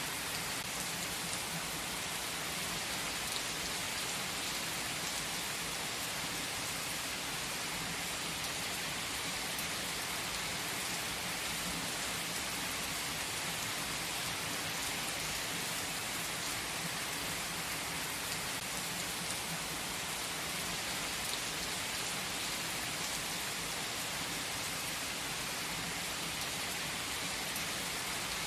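Steady rain falling: an even hiss that holds a constant level without change.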